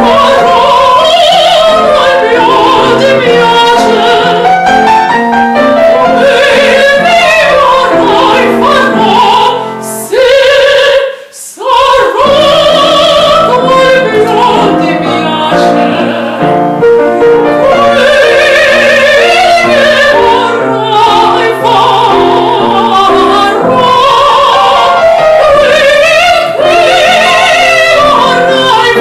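A classically trained solo voice singing in an operatic style with piano accompaniment, the voice wavering in a wide vibrato. The music breaks off briefly about a third of the way in, then goes on.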